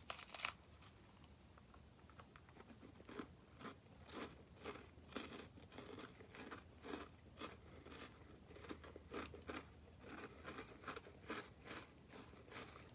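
A person bites into a crunchy Nature Valley honey biscuit with cocoa almond butter filling, then chews it with a faint, steady crunching, about two chews a second.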